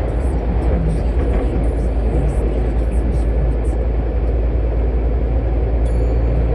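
Scania truck running on the road: a steady low engine drone with road and wind noise.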